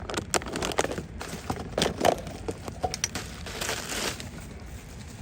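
Irregular close-up crackling and rustling, with small snaps at uneven intervals, from hands searching through and breaking dry debris.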